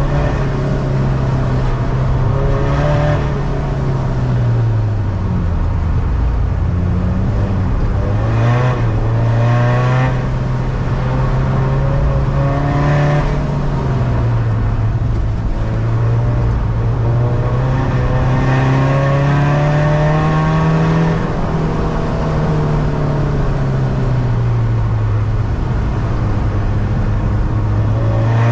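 Tuned 250 bhp diesel engine of a SEAT Ibiza, heard from inside the cabin while it is driven hard on track. Its pitch climbs as it pulls through the revs and drops at each gear change or braking point, several times over.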